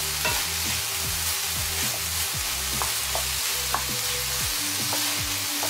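Sliced bell peppers and onions sizzling in a hot frying pan, stirred with a wooden spatula, with a steady hiss, over background music.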